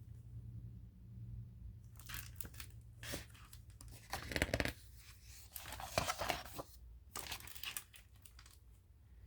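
Paper rustling as the pages of a picture book are handled and turned, with the loudest rustles about four and a half and six seconds in.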